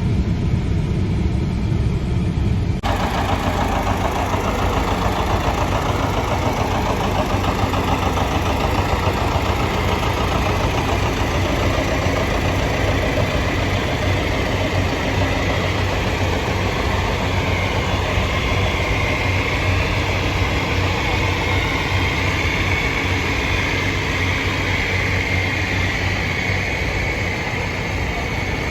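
Vintage tractor engine running steadily, with a higher whine coming in over the second half.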